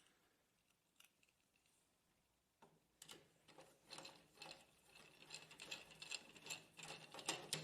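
Near silence, then from about two and a half seconds in, faint, irregular mechanical clicking and ticking of small parts and screws being worked into a laser printer's frame.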